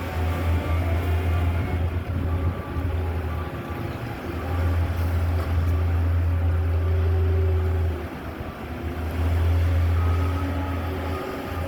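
Low, steady rumble of heavy snowplow trucks' engines running in the street, dipping briefly twice.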